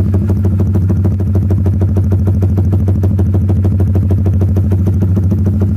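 Honda Supra GTR 150's single-cylinder four-stroke engine idling steadily through a Proliner aftermarket exhaust with its dB killer baffle removed, an open, unbaffled exhaust note with even pulses.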